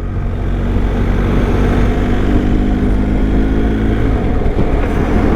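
BMW R1250 boxer-twin motorcycle engine running under way, with steady wind and road noise. A set of steady engine tones comes up in the middle and fades near the end.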